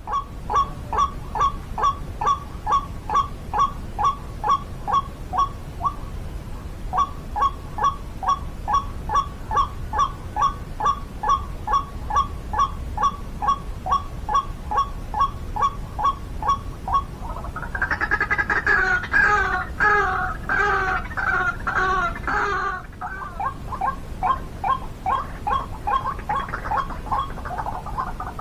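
White-breasted waterhen calling: a long run of evenly repeated notes, about two a second, with a short break about six seconds in. Past the middle comes a louder, harsher run of calls for about five seconds, then the steady repeated notes return.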